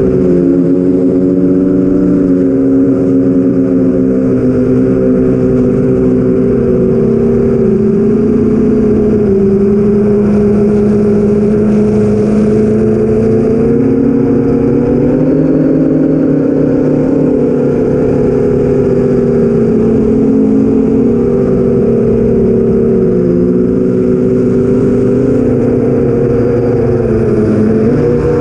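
An 8-inch FPV quadcopter's four BrotherHobby Avenger 2812 1115kv brushless motors spin 8045 propellers in flight, making a steady multi-tone drone. The pitch drifts down and up with the throttle: it dips about a third of the way in, rises again about halfway, and dips briefly near the end.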